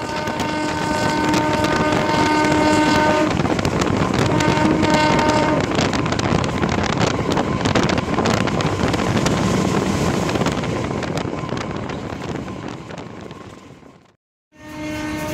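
A train horn sounds in a long blast of about three seconds, then a shorter one. The train's rumble follows, with the clatter of wheels over the rails, and then the sound fades out near the end.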